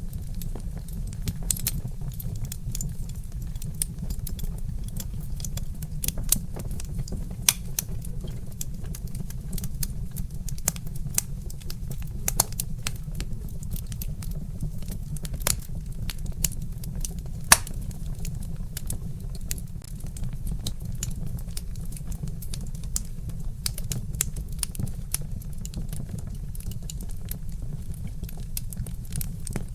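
Wood fire crackling: irregular sharp pops and snaps over a steady low rumble, with one louder pop about two-thirds of the way through.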